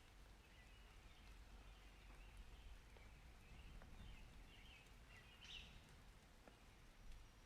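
Faint outdoor ambience: short high bird chirps every second or so, the clearest about halfway through, over a low steady rumble.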